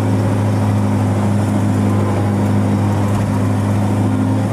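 Diesel engine of a large articulated log stacker (log loader) running steadily, a loud low drone heard from inside its cab.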